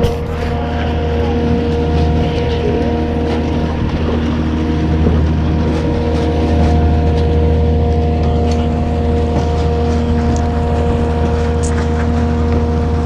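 Motorboat engine running steadily under way, a constant low drone with a fixed pitch.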